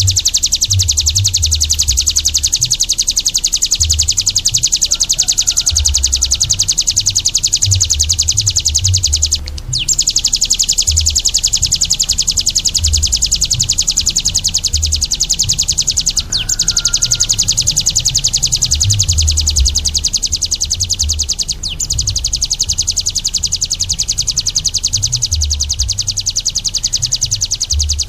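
A caged songbird singing one long, very fast, high trill, pausing briefly three times, over irregular low thumps.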